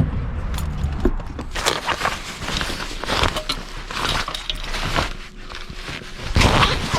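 Irregular clicks and knocks with some rustling, a few each second, quieter for a moment about five seconds in.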